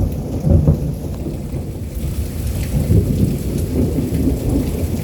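Thunder rolling over steady rain, from a lightning strike close by.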